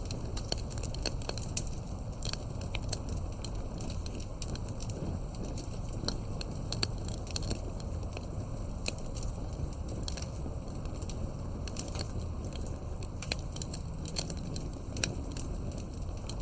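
Campfire burning, its wood crackling with irregular sharp snaps and pops over a low steady rumble.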